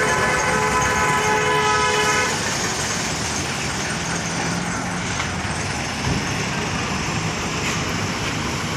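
A vehicle horn held for about two seconds, then cutting off, over steady road traffic noise that continues afterwards.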